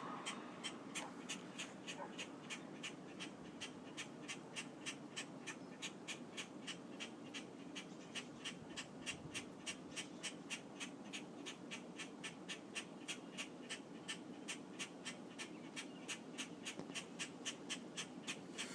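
A high, steady chirp repeating about four times a second over a faint low background hum.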